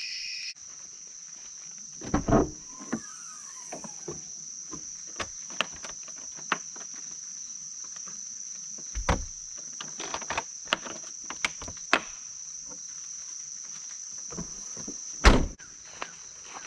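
Steady high-pitched drone of insects, likely crickets, with scattered clicks and knocks and two louder thumps, about two seconds in and near the end.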